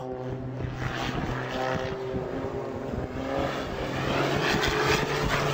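Propeller airplane engine running with a steady drone, growing louder toward the end.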